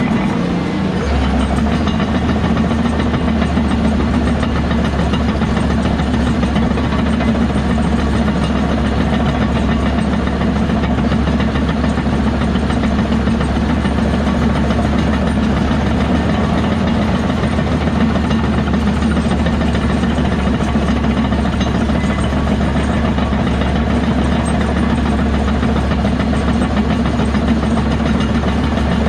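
Heavy diesel earthmoving machinery running steadily, with a constant low engine drone.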